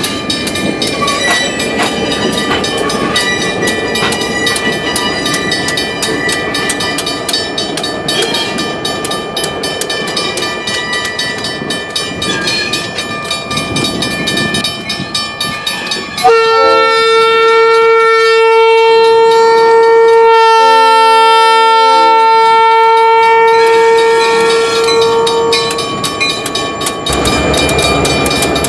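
Train rolling along the rails with a steady rumble. About sixteen seconds in, the locomotive's horn sounds a long, loud blast of about ten seconds, with a brief dip partway through. Near the end the engine and rolling rumble come back.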